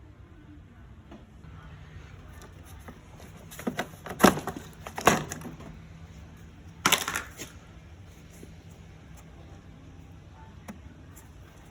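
A few sharp knocks and clicks in three clusters, about four, five and seven seconds in, over a faint steady hum.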